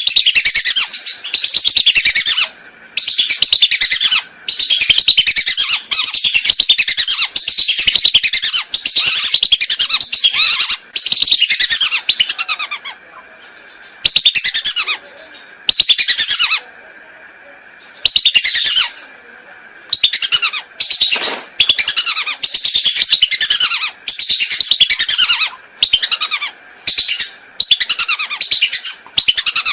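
Whistling duck (belibis) lure-call recording: loud, dense runs of quick, falling, high whistled calls in bursts of one to two seconds, separated by brief pauses.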